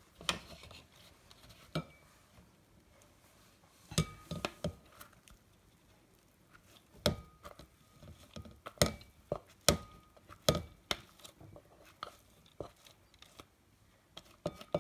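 Irregular sharp knocks and taps on a glass mixing bowl, about a dozen, several with a short glassy ring, as chopped carrot, onion and garlic are tapped and scraped out of a food processor bowl into it. There is a quiet pause in the middle.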